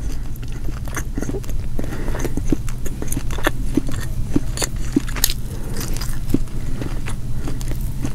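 Close-miked chewing of deep-fried striped bass, with frequent short wet clicks and smacks from the mouth. Fingers pick at the crisp fried fish about halfway through, and a steady low hum runs underneath.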